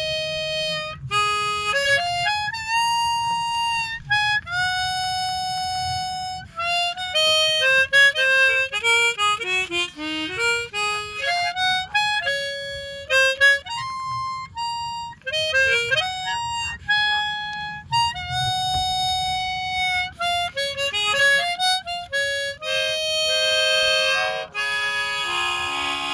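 Harmonica played solo: a melody of held single notes, with a quick falling run about ten seconds in and chords near the end.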